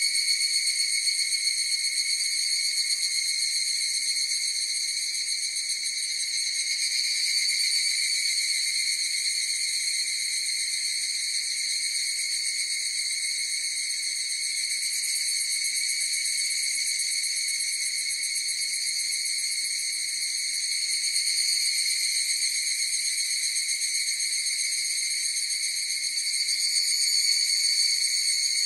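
A chorus of higurashi (evening cicadas) calling, a steady shrill pitched buzz that swells and eases every few seconds.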